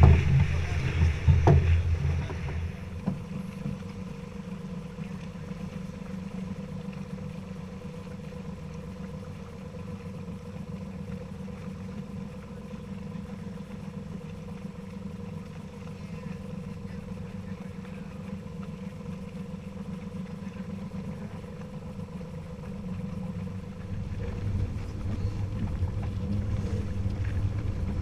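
Steady low drone of a boat under way, with faint steady tones over it. A louder low rumble fills the first two seconds, and the rumble builds again from about 24 seconds in.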